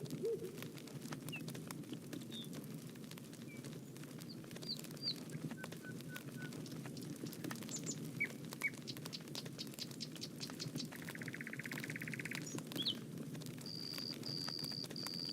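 Bonfire crackling: a low steady rush of the flames with many scattered sharp pops, with small birds chirping over it. A short buzz comes about eleven seconds in, and a high tone pulses repeatedly near the end.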